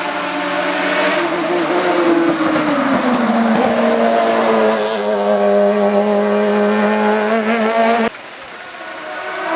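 Hillclimb race car's engine running hard at high revs, its pitch falling about two to three seconds in and then holding a steady note. The sound cuts off abruptly about eight seconds in, leaving a quieter engine that grows louder near the end.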